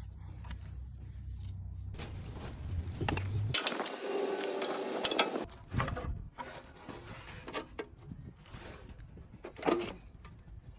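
Hand tools working on metal car parts: scattered clicks, knocks and rubbing, with a steady low hum under the first few seconds.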